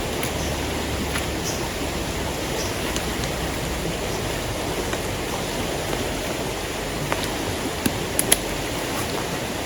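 Steady rushing water of heavy rain and a swollen, fast-flowing river, with a few sharp ticks near the end.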